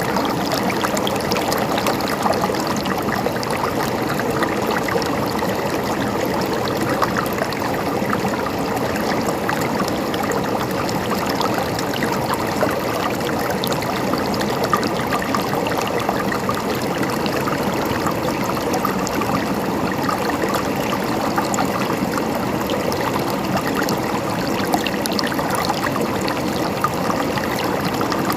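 Running water in a small stream, trickling and gurgling steadily.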